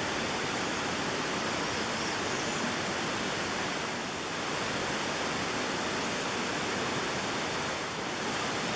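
Small waterfall rushing over rocks, a steady loud hiss of falling water. Nearby it is awfully noisy.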